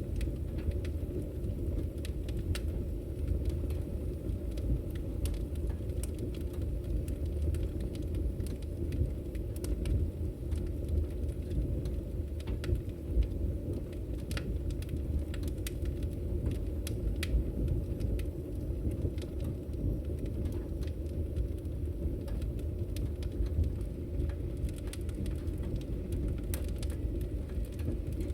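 Firewood burning in a fireplace, crackling with many irregular sharp pops over a steady low rumble of the flames.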